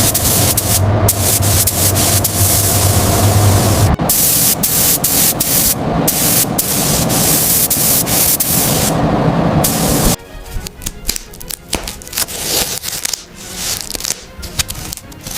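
Loud hissing spray in short edited clips with background music, turning quieter and choppier about ten seconds in.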